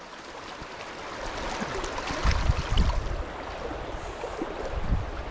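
Fast river current rushing steadily around a wading angler, with a few low thumps a couple of seconds in.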